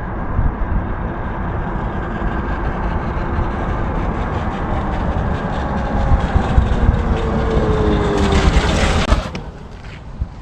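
A 48-volt electric dirt bike being ridden flat out in its first speed mode: a heavy rumbling rush of riding noise, with a motor whine that falls in pitch as the bike slows. A harsh scraping rush comes about eight seconds in, and then the noise drops off sharply just after nine seconds as the bike stops.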